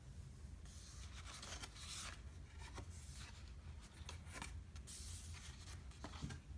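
Paper rustling and soft clicks as the pages of a book are handled and turned, in a series of short brushing swishes, with a low steady hum underneath.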